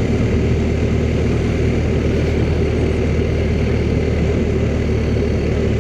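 Motorcycle engine running at a steady cruise, a constant low drone that neither rises nor falls.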